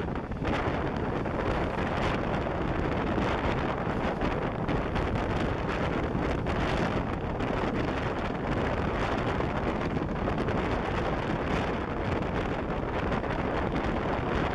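Steady rush of wind and running noise from a moving passenger train, heard at the carriage window, with wind buffeting the microphone.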